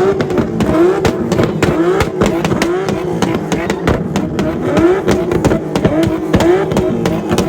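Car engines running and revving amid crowd noise, with a pulsing sound that repeats about every three-quarters of a second and many sharp pops and clicks.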